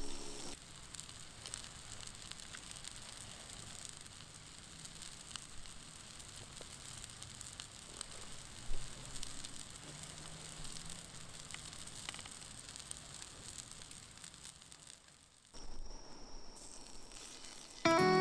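Faint campfire crackle over a steady low hiss, with scattered small pops. About 15 seconds in it cuts to a quieter background, and music comes in near the end.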